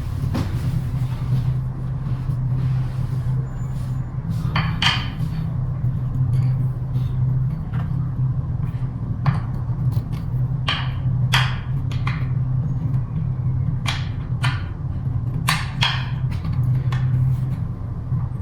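Hand tools knocking and clicking against the scooter's metal folding mechanism, about twenty separate sharp taps, some ringing briefly, over a steady low hum.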